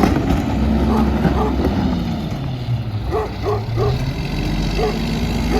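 Mack MR rear-loader garbage truck's diesel engine running steadily. About three seconds in, a dog barks five or six times in quick succession, with another bark or two near the end.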